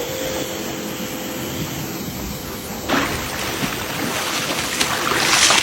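Steady rush of sea water and surf, with a sudden louder surge about three seconds in and a hiss that builds near the end.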